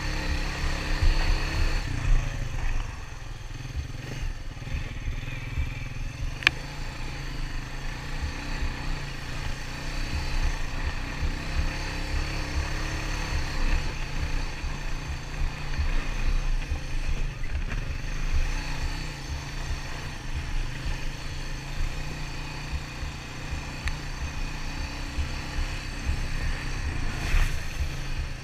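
ATV engine running steadily while riding along a trail, with a low uneven rumble. A single sharp click comes about six and a half seconds in.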